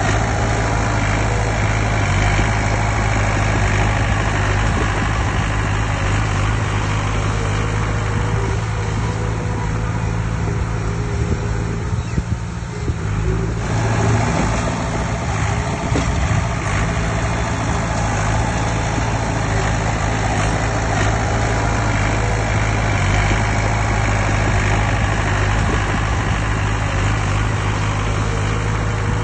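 Heavy diesel engine of earthmoving machinery running steadily with a deep, even hum, easing briefly about twelve seconds in before picking up again.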